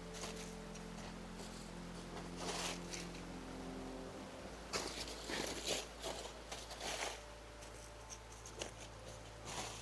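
Intermittent rustling and scraping, loudest and busiest from about five to seven seconds in, over a faint steady hum.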